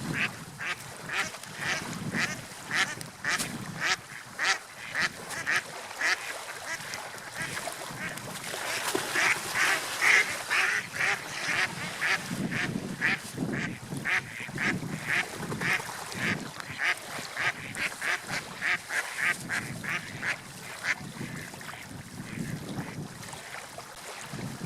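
Waterfowl calling in a long run of short, repeated calls, about two a second, over a low steady background noise.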